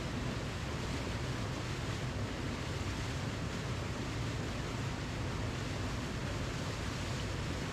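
Waterfall: steady, unbroken rushing of falling water, an even noise with no change in level.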